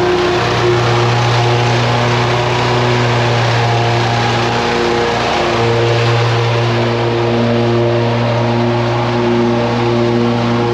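Small gas engine of lawn equipment running steadily at working speed, with a brief dip in its tone about halfway through.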